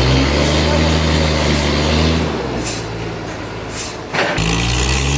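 Sawmill machinery running with a low motor hum and a hissing noise over it. The hum drops out about two seconds in and comes back near the end, just after a sharp knock.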